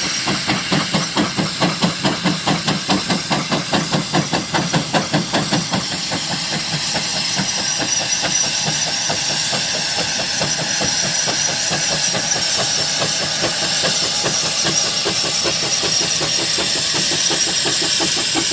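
Steam traction engine, a 1919 McLaren road locomotive, chuffing hard under load with about two to three exhaust beats a second over a steam hiss. After about six seconds the beats grow fainter and the sound settles into a steadier hiss and running noise.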